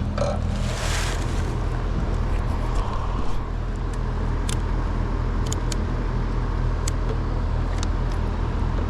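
A steady low rumble, with a few light clicks and taps from hands working on parts, and a brief hiss about a second in.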